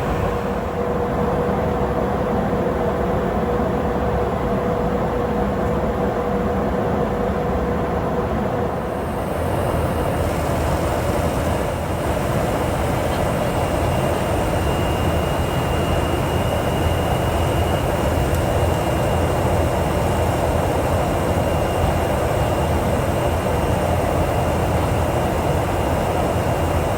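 Steady jet aircraft noise from a KC-135 Stratotanker's engines, a constant loud rumble. A low hum drops out about nine seconds in, and a higher whine with more hiss comes in.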